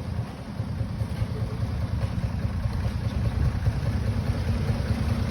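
A motor vehicle's engine is running as a low, steady rumble that grows slowly louder, as if the vehicle is approaching.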